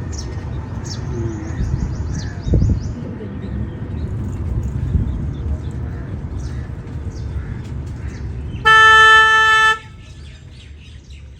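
A vehicle horn honks once for about a second near the end, the loudest sound, over the steady low rumble of a running vehicle. Birds chirp faintly.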